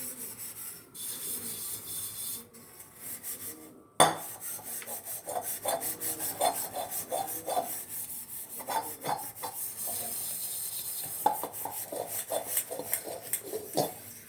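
A dirty pot crusted with dried milk and curd being scrubbed by hand with soapy dishwash liquid: a quick run of rubbing strokes, with one sharp knock about four seconds in.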